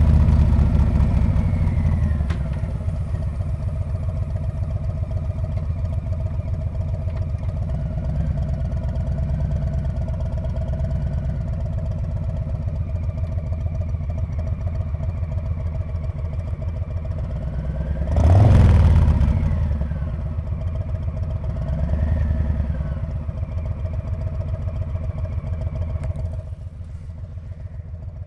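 A Harley-Davidson Street Bob's V-twin exhaust pulsing steadily at low revs under light throttle. It swells sharply louder for about a second roughly two-thirds of the way in, swells again more gently a few seconds later, then drops in level as the throttle eases near the end.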